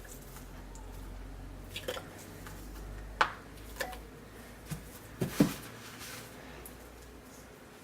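Work with chunks of cold, firm coconut oil: a handful of scattered sharp knocks and clicks, the loudest a little over three seconds in and about five and a half seconds in. A low hum fades out about halfway.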